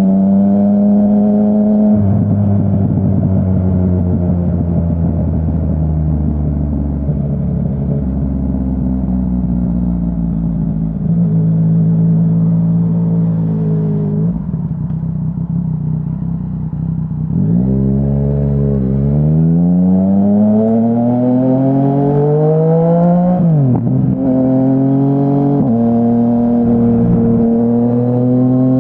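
Yamaha Tracer 900's inline three-cylinder engine through a Dominator HP3 full-system exhaust, on the move. The note holds, then falls as the bike slows for about ten seconds, then climbs again with rising revs broken by quick upshifts, the sharpest one about two-thirds of the way through.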